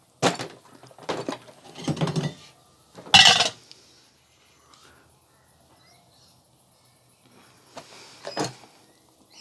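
A run of sharp knocks and clatters of hard objects being handled and set down, four in quick succession with the loudest about three seconds in, then two more near the end.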